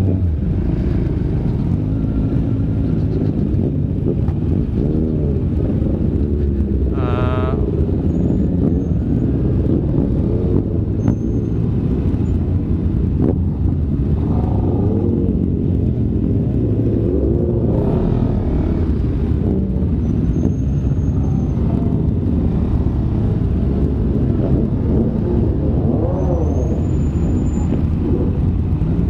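Motorcycle engines, the rider's own KTM Duke 390 among them, running in slow stop-and-go traffic, rising and falling in revs every few seconds over a steady low rumble.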